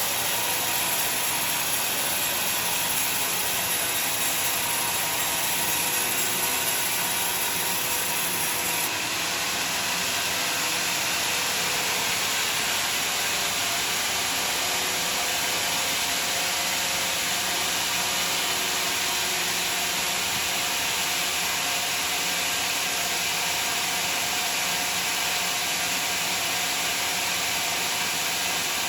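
Sawmill bandsaw running and cutting through a large log: a steady, dense mechanical noise. Its highest part drops away suddenly about nine seconds in.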